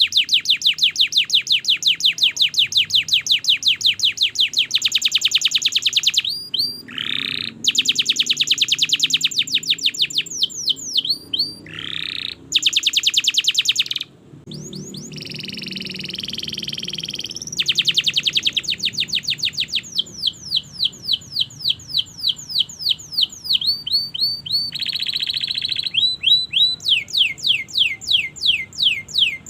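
Domestic canary singing a long, continuous song: fast trills of rapidly repeated notes that change to a new phrase every few seconds, with a few downward-sliding whistles and a buzzy passage partway through.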